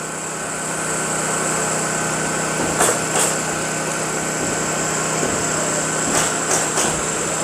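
A small engine running steadily, with a low hum and a steady high tone, and a few short sharp knocks about three seconds in and again near the end.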